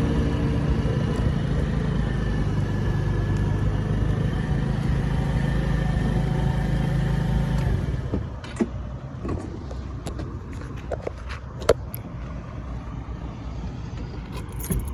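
Small moped engine running steadily, then stopping abruptly about eight seconds in, followed by a few scattered clicks and knocks.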